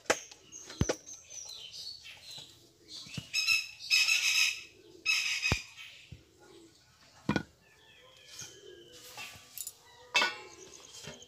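Birds chirping and calling, with two louder calls about four and five seconds in. A few sharp knocks come between them, one about ten seconds in as a round rolling board is set down on the floor.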